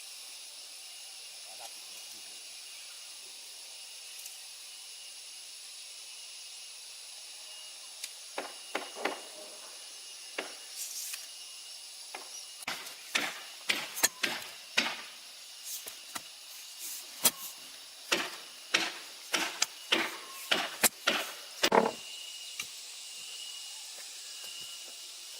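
A run of sharp knocks, irregular and roughly one to two a second, starting about eight seconds in and stopping about twenty-two seconds in, over a steady high hiss.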